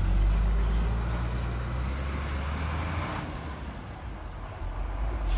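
Heavy diesel engine of a bulldozer or dump truck running with a deep, steady rumble that eases after about three seconds, with a brief hiss about two seconds in.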